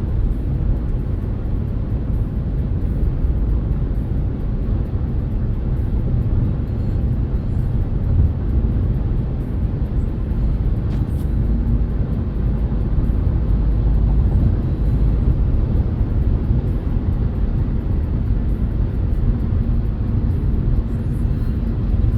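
Steady low road and tyre rumble of a Renault Kardian driving on the highway, with a faint hum coming and going a couple of times.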